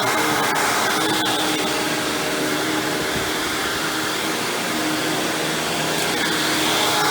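Hoover WindTunnel Supreme upright vacuum cleaner, with a chevron brush roll, running steadily while vacuuming. It holds an even motor whine with a steady hum, and a few short clicks come through, once about half a second in and again a second or so in.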